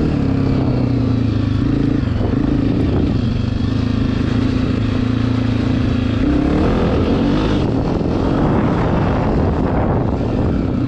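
Dirt bike engine running while riding, holding a fairly steady pitch, with a brief rise and fall in revs about six or seven seconds in.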